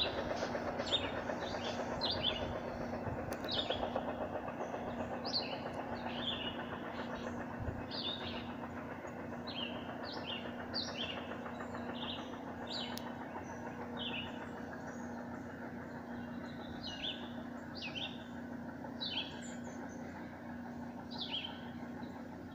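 Distant Amtrak train rumbling along the rails, slowly fading away, with a low steady hum in it. Over it a songbird repeats short, high, falling chirps about once a second.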